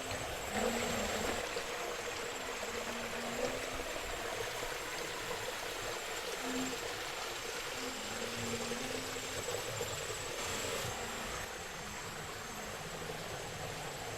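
Jungle ambience: the steady rush of flowing water, with a constant high insect drone over it and a few short low calls now and then.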